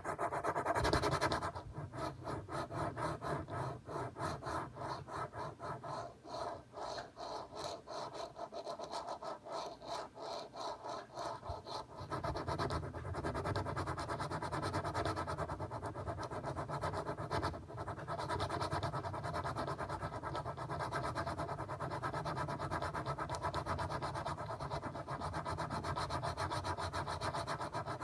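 Rhythmic scratching and rubbing on a surface, in quick strokes at first, then about twelve seconds in a denser, steadier rubbing with a deeper tone.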